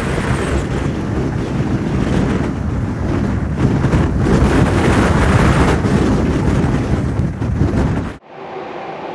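Strong gusting typhoon wind buffeting the microphone in heavy low rumbling waves. About eight seconds in, it cuts off suddenly and gives way to the quieter, steady running noise of a train.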